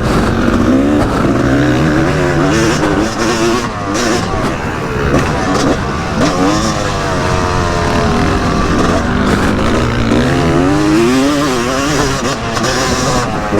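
Yamaha YZ250 two-stroke motocross engine revving hard, its pitch climbing and dropping again and again as the throttle is worked.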